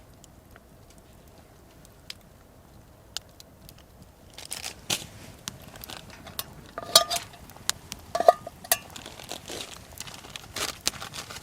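Camp cookware being handled: a scatter of faint clicks, then a busy run of clicks and rustling about four seconds in, with two ringing clinks near the middle.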